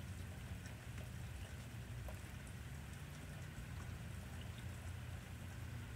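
Steady rain, with faint scattered drop ticks over an even hiss, and a low steady rumble underneath.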